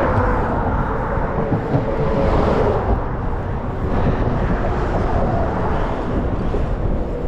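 Wind buffeting the microphone and road noise from a moving bicycle, a steady rushing rumble with a faint steady hum.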